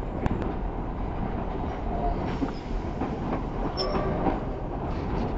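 Railway carriage running along the track, heard from an open carriage window: a steady rolling rumble with scattered sharp clicks from the wheels and rail joints, and a brief high wheel squeal about two-thirds of the way through.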